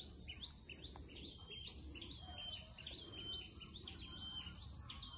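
A bird repeating a short call that drops then levels off, about twice a second, over the steady high drone of insects.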